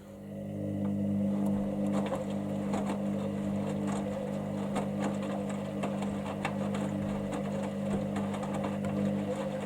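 Hoover Dynamicnext washer-dryer on its main wash, its drum motor starting up and building to a steady hum within about a second as the drum turns, with faint scattered clicks from the tumbling load.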